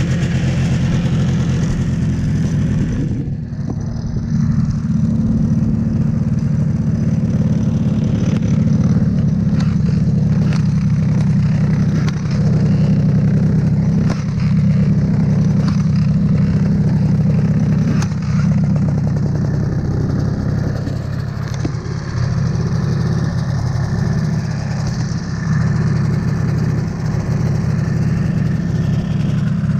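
Old two-stroke snowmobile engine running steadily, with a few brief dips in level.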